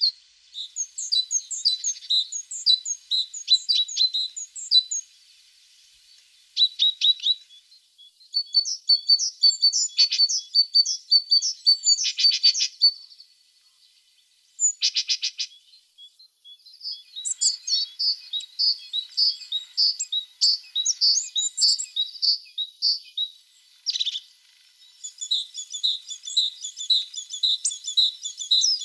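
Tits singing: phrases of rapid, high chirping notes with brief pauses between them, and a couple of short rasping calls in the middle.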